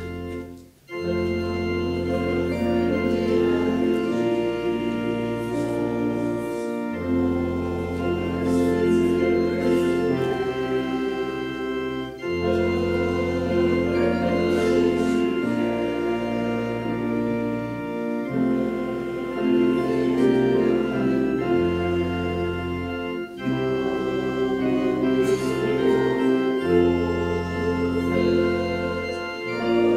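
Organ playing slow sustained chords over a bass line that moves every couple of seconds, with a short break in the sound about a second in.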